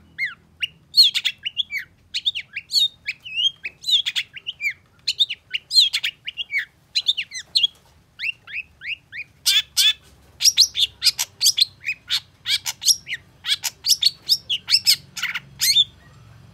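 Long-tailed shrike singing a fast, chattering song: quick runs of short down-slurred whistles, turning harsher and denser about halfway through, then stopping shortly before the end.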